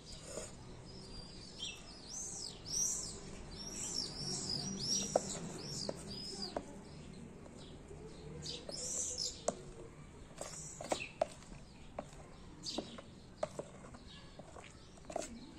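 Small birds chirping in quick repeated high chirps through the first half, with another burst about nine seconds in. Scattered sharp clicks of a metal spoon against a plastic bowl and pot as thick cake batter is scraped out.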